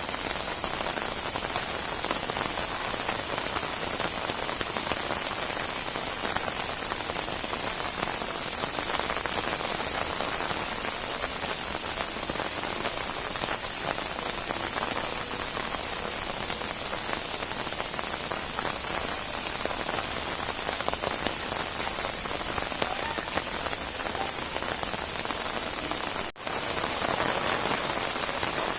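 Rainstorm: steady rain falling as a continuous, even hiss of drops. Near the end it cuts out for an instant and comes back slightly louder.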